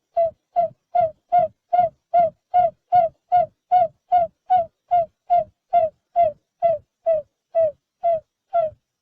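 Barred buttonquail giving its booming advertising call, the call typically made by the female: a long, even run of short low hooting notes at about two and a half a second.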